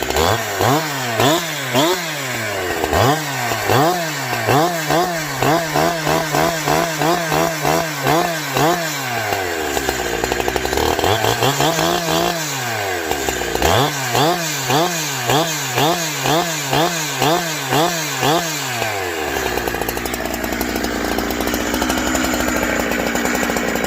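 Farmertec Holzfforma G372XP two-stroke chainsaw on its first start, revved up and down in quick throttle blips, about two a second. The blips break off twice for a pause and one longer rev, then the saw settles to a steady idle for the last few seconds. It is a cold engine still warming up.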